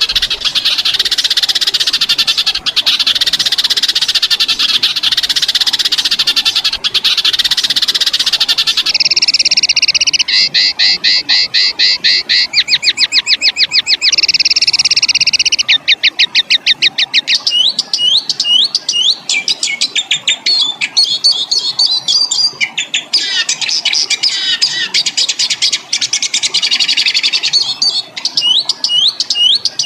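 Recorded songbird song of the harsh 'fighter' kind used as a tutor track: a dense buzzing roll for about the first nine seconds, then rapid runs of sharp repeated notes ('tembakan') and quick upswept calls.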